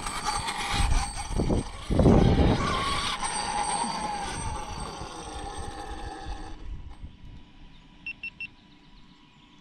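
Losi 5ive TE 3.0, a large 1/5-scale electric RC truck, driving: tyre and drivetrain noise with a brushless motor whine that falls in pitch, fading out after about six and a half seconds. Three short high beeps come near the end.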